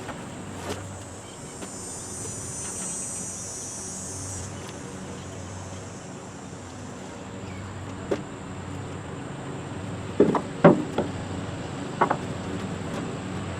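High-pitched insect buzzing for about three seconds, then a handful of sharp knocks in the second half, over a low steady background hum.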